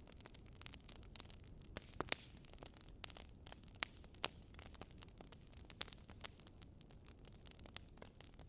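Wood fire crackling: irregular sharp pops and snaps of burning firewood over a low steady rumble, a few pops standing out louder near the middle.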